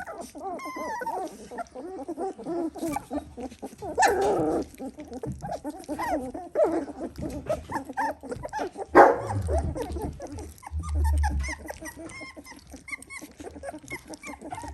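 A litter of three-week-old Dalmatian puppies whining and squeaking at feeding time, many short rising and falling calls overlapping, with one louder yelp about four seconds in. A sharp knock sounds about nine seconds in.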